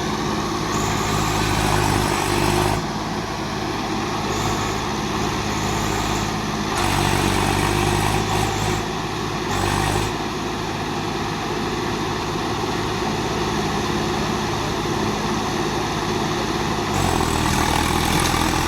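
Tractor diesel engines running hard under load, pulling a bogged tractor out of mud. The engine note shifts several times as the throttle and load change.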